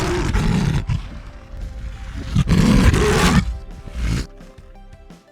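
A big cat roaring: two loud roars, one at the start and one about two and a half seconds in, with a shorter one near four seconds, over background music.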